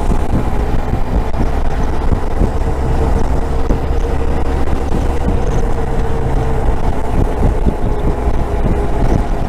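Motorcycle engine running at a steady cruising speed, with wind and road noise on the rider's microphone.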